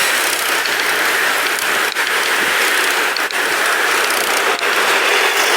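Steady rushing noise of a bicycle being ridden along pavement, tyres and moving air over the microphone, with a few sharp clicks or knocks.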